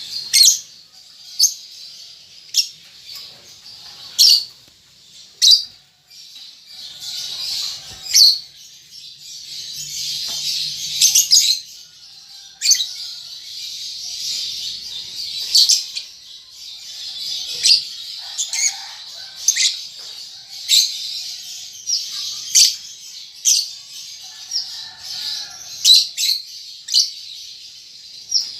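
Young lovebirds calling: loud, short, sharp high-pitched chirps at irregular intervals over steady high chattering.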